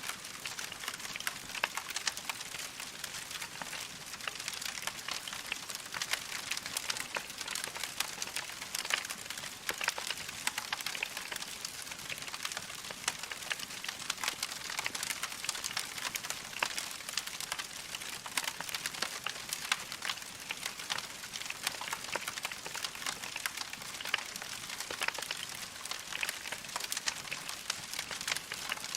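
Logs burning in a fireplace, crackling steadily with a dense run of small pops and snaps.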